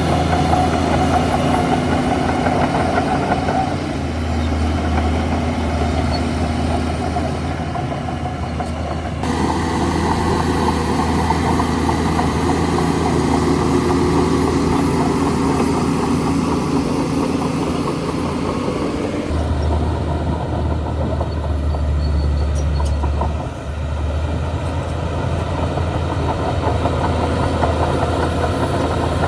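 Diesel engine of a Shantui DH17C2 bulldozer running steadily while working, with a low hum underneath. The sound shifts abruptly about nine and nineteen seconds in, and dips briefly near the end.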